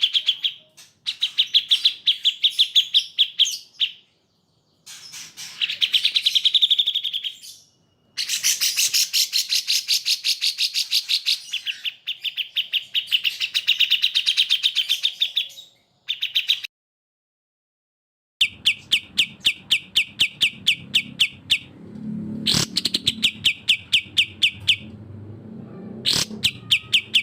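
Songbird recording for training cage birds: bursts of fast, evenly repeated high chirping notes, each burst lasting a few seconds and cutting off abruptly, with short silences between. In the last third a faint low background noise sits under the calls.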